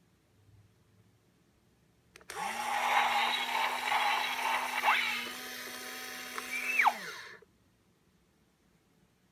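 Battery-powered toy recycling garbage truck set going by a click: a whirring hum slides up in pitch, runs steadily for about five seconds, then winds down and stops.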